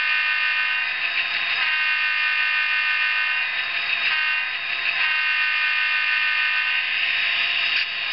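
Diesel locomotive air horn from the Tsunami sound decoder in an N-scale Athearn FP45 model, played through the model's tiny speaker, so it sounds thin with no bass. It sounds a run of blasts: long, long, short, long, the grade-crossing pattern.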